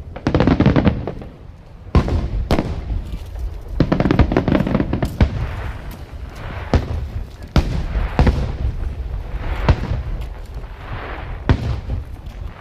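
Aerial fireworks shells bursting in a steady barrage: repeated sharp bangs about every half second to a second, with crackling between them.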